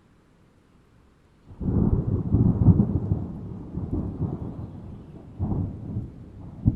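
Thunder: after a faint hiss, a clap breaks suddenly about a second and a half in and rolls into a long crackling rumble. Further rumbles come near the end, with one sharp crack.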